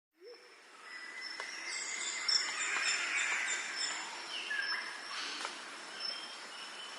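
Several birds chirping and calling over a faint hiss of outdoor ambience. One bird repeats a short high chirp about three times a second for a couple of seconds.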